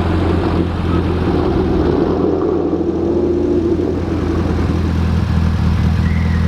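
Car engine running steadily at low revs, a deep, even drone.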